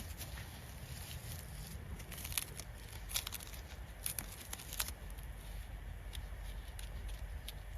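Someone walking through snowy woods: a low, steady rumble with a handful of faint, scattered clicks and snaps.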